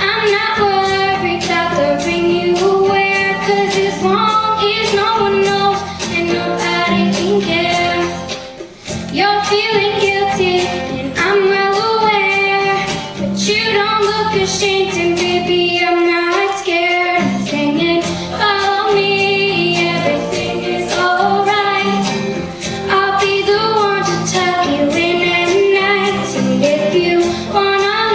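A young girl singing a pop song over a recorded backing track with a steady beat.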